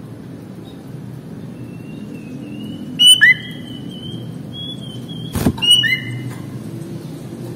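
Sooty-headed bulbul singing: two loud bursts of clear whistled notes, about three seconds in and again near the middle, with a thin drawn-out whistle leading up to them. A sharp knock comes just before the second burst.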